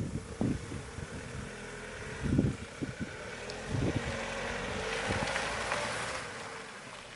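Wind gusting on the microphone, and from about the middle a rushing noise with a faint steady hum that swells and then fades away.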